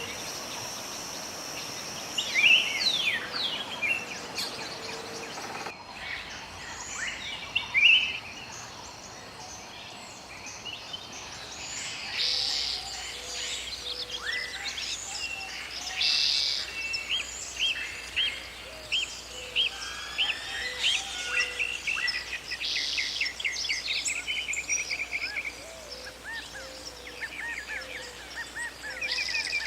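Songbirds chirping and calling over outdoor background noise, with many short rising and falling chirps and rapid trills; the background changes abruptly about six and twelve seconds in.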